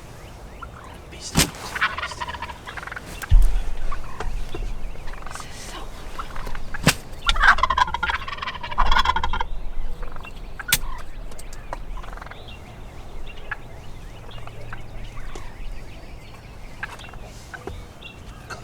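Wild turkey toms gobbling at close range: two loud, rapid, rattling gobbles about a second and a half in and again around seven seconds in, with a few sharp clicks or knocks between them.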